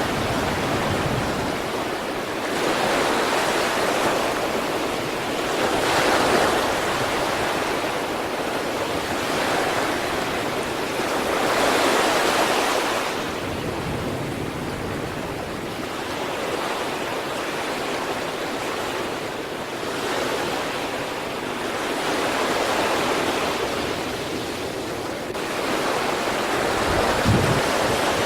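Sea waves breaking on a shore, the surf swelling and washing back every few seconds. A brief low thump comes near the end.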